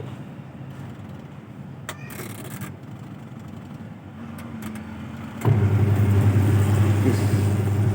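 Twin-tub washing machine's wash motor switching on about five seconds in, after a few faint clicks, and running with a steady electric hum. The repaired machine, which was dead, now powers its wash motor.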